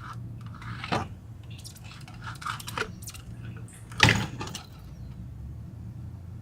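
Handling noises from working the old fuel pump assembly out of the fuel tank: scattered clicks and scrapes, with one loud knock about four seconds in, over a steady low hum.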